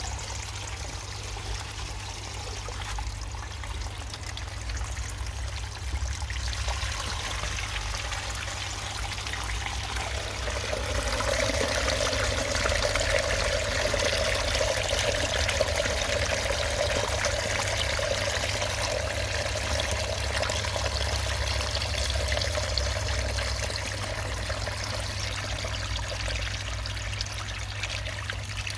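Water running and pouring steadily into a DIY sump as it is filled, growing louder about ten seconds in; the float-switched pump has not yet kicked in. A steady low hum runs underneath.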